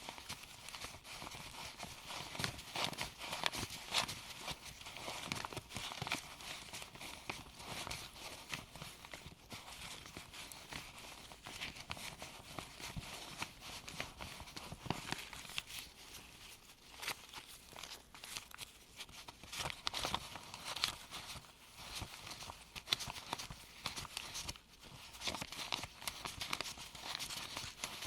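Gloved hands handling a stack of US $1 paper bills: crisp paper rustling and flicking as the bills are picked up and leafed through, with many small clicks and taps.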